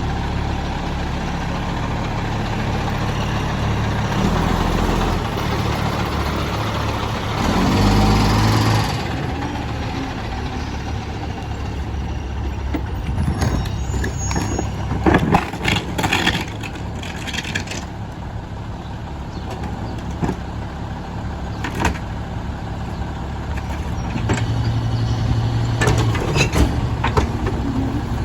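Mack LE McNeilus garbage truck's diesel engine running, revving up twice early on with a long burst of air hiss about eight seconds in. Later come a run of sharp clanks and bangs, and the engine speeds up again near the end.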